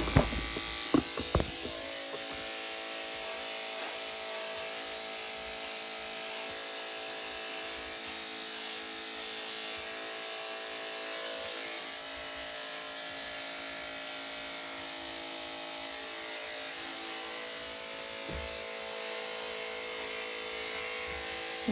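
Electric dog grooming clippers running with a steady hum. A few sharp knocks in the first second and a half.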